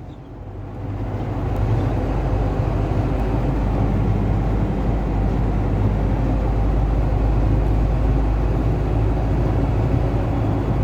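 Steady low rumble of road and wind noise inside a moving car's cabin, building up over the first second.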